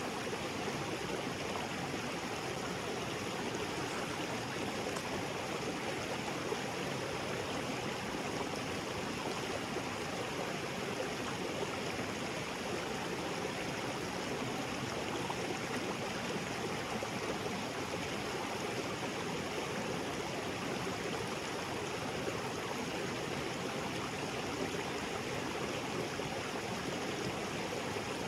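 Small waterfall and creek water splashing and rushing steadily over rocks, with no breaks or changes.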